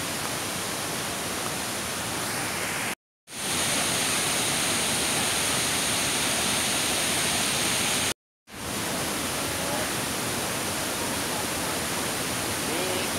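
Steady rushing roar of a large waterfall, an even hiss of falling water with no rhythm. The sound cuts out completely twice for a fraction of a second, about three and eight seconds in.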